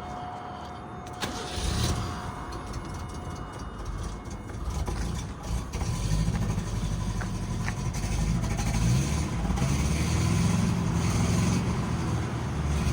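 Subaru 1600's flat-four engine on a cold start: it fires about a second in and runs unevenly at first, then settles into a steady, louder run from about six seconds in.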